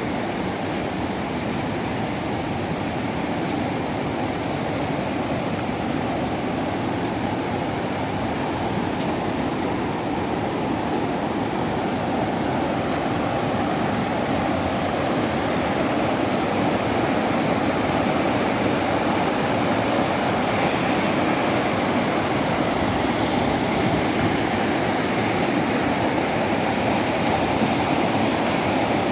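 A waterfall's water rushing steadily over rocks: an even, unbroken noise that grows slightly louder partway through.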